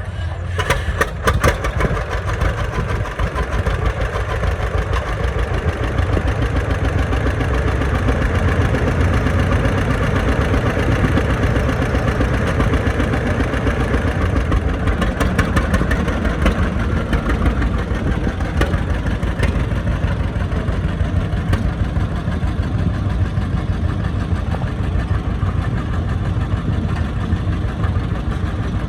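John Deere 60 tractor's two-cylinder engine running steadily, with an even pulsing beat, a little louder after about seven seconds.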